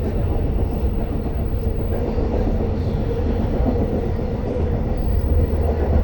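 Long Island Rail Road train running along the track: a steady low rumble with faint, scattered clicks.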